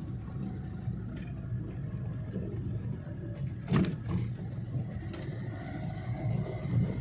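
Car running on the road, heard from inside the cabin: a steady low rumble of engine and tyres, with one short sharp thump a little under four seconds in.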